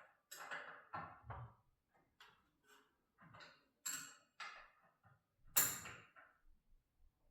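Irregular metal clinks and knocks from tools working on a garage door's torsion spring hardware, about a dozen sharp strikes with the loudest about five and a half seconds in.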